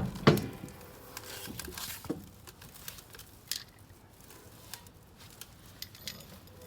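Scattered clicks and knocks of objects being handled, with one louder knock just after the start and lighter taps after it.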